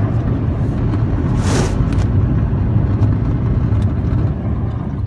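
Steady low rumble of a vehicle driving on the road, with a brief hiss about a second and a half in.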